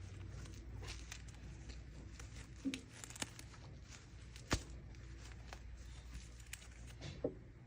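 Packaging being handled: scattered crinkles, small tears and sharp clicks over a steady low hum.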